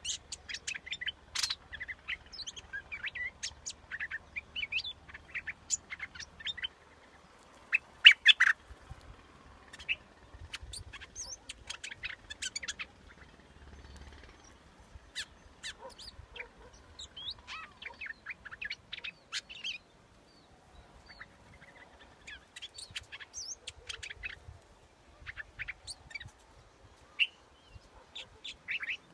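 Bulbul song: clusters of short, quick chirps and whistled notes, the loudest about eight seconds in. It is a decoy call recording for luring bulbuls.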